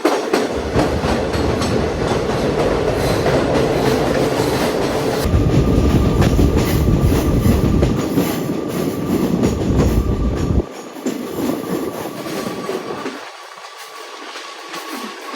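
Passenger train running on the rails, heard from on board: a loud, low rumble with wheel-on-rail noise that drops away suddenly about ten seconds in, leaving a quieter clatter.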